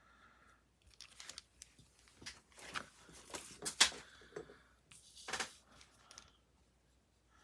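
Wink of Stella brush pen scrubbing back and forth over watercolor-pencil coloring on cardstock in irregular scratchy strokes, blending the pigment until it starts to lift.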